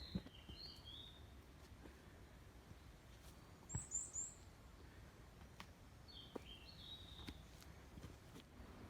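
Songbird singing in forest: a short phrase of stepping notes at the start and again about six seconds in, with a brief high-pitched call about four seconds in. Faint scattered clicks and a low rumble underneath.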